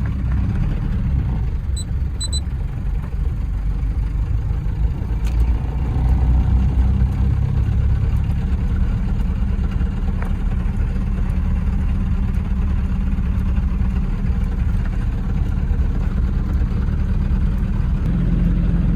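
Toyota 3L diesel engine idling in first gear while pulling the truck uphill, knocking. The owners take the knock for a failed connecting rod.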